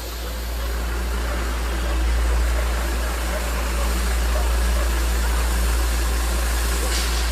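An engine running with a steady low rumble, growing louder over the first two seconds and then holding steady.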